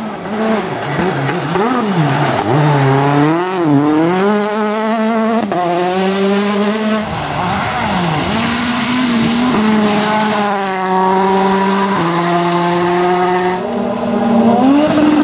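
Rally car engine revving hard, its pitch swinging up and down over the first few seconds as the throttle is worked, then holding high with a few quick gear changes as the car pulls away. Tyre noise runs underneath.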